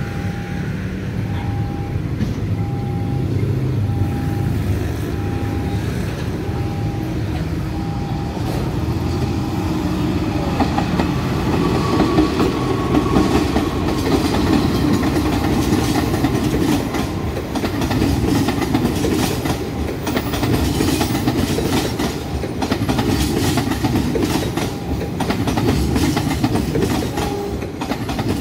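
Level-crossing warning signal beeping in a steady, even pulse while an express passenger train hauled by a CC 206 diesel-electric locomotive approaches and passes. The low rumble grows, the signal fades under it after about ten seconds, and the coaches' wheels clatter rhythmically over the rail joints.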